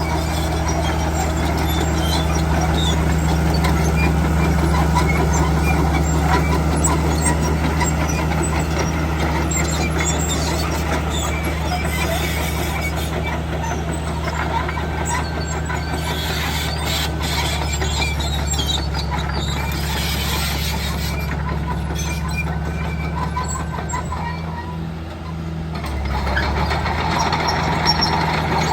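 Heavy diesel earthmoving machinery running steadily, with scattered metallic squeaks and clicks over the engine note. About 25 seconds in the engine sound dips briefly, then comes back at a changed pitch.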